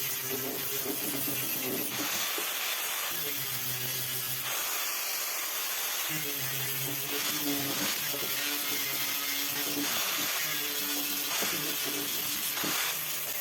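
An electric power tool running with a steady hiss, its motor hum coming and going in stretches of a second or two.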